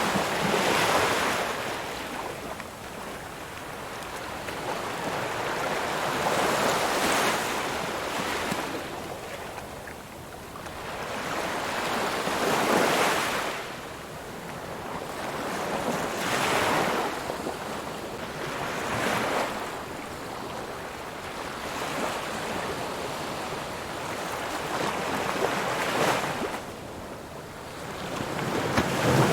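Ocean waves breaking on a shore, a steady wash of surf that swells and recedes every few seconds.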